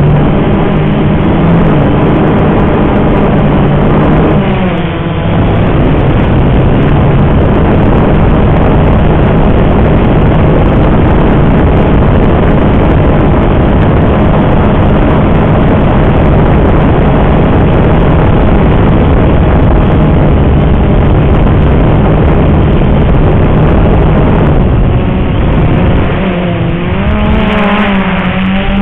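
Walkera X380 quadcopter's motors and propellers humming steadily in flight, buffeted by wind. The pitch shifts and wobbles about 4 seconds in and again near the end as the motors change speed.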